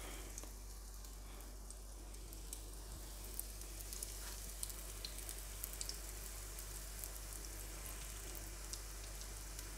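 Buckwheat patties frying in hot vegetable oil in a non-stick pan: a low, steady sizzle with scattered small crackling pops as more floured patties are laid into the oil.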